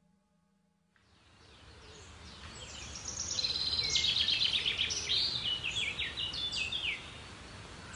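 A songbird singing rapid high trills and short whistled phrases over a steady outdoor background, fading in after about a second of silence. The song is loudest from about three seconds in and stops about a second before the end.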